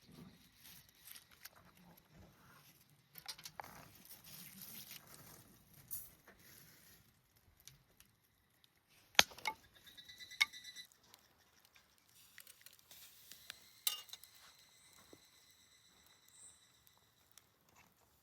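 Quiet handling noises: scattered light taps and rustles, with three sharper clinks about nine, ten and a half and fourteen seconds in, the later ones leaving a brief high metallic ring.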